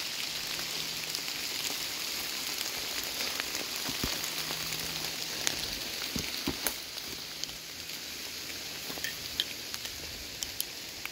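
Heavy rain falling steadily: an even hiss, with scattered drops ticking sharply close by and a few dull knocks near the middle.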